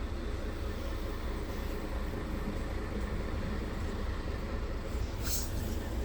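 Scania R tractor unit running steadily, a continuous low diesel rumble. A brief hiss comes in near the end.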